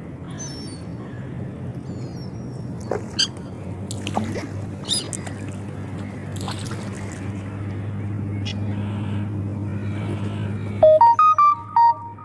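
Outdoor ambience with a steady low mechanical hum that builds gradually, scattered small chirps and clicks, and near the end a quick run of electronic beeps at changing pitches, the loudest sound.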